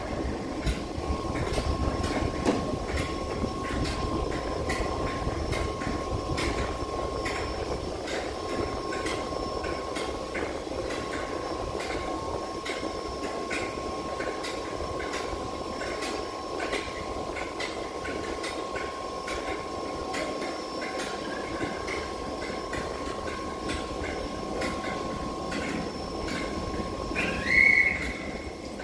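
Merseyrail electric train standing at an underground platform with its doors open: a steady hum with an even high whine over it, and a short high chirp near the end.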